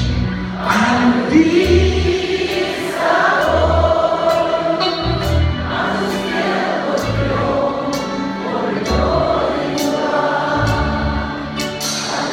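A vocal-instrumental pop ensemble (VIA) playing live: voices singing over bass notes and a steady drum beat.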